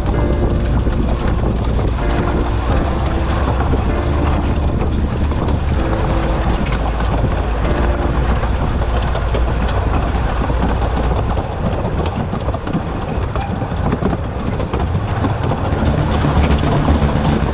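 Narrow-gauge train carriages running along the track, a steady rumble with wheel-on-rail clatter, heard from just outside a carriage window.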